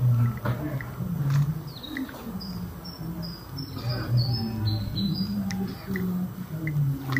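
A songbird calling a run of short, falling chirps for a couple of seconds in the middle, with scattered single chips, over a man's low voice talking.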